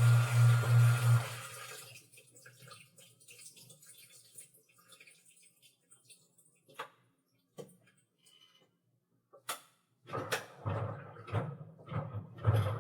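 Washing machine drum motor humming in a pulsing rhythm, about four pulses a second, then cutting off about a second in. A quiet stretch follows with faint water trickling and a few sharp clicks, then water sloshing with a low hum starts again about ten seconds in.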